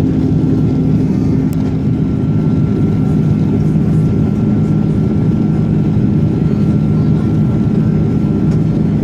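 Airbus A330-300 airliner cabin noise: the engines and airflow heard from inside the cabin as a steady, loud low drone with a faint steady whine above it.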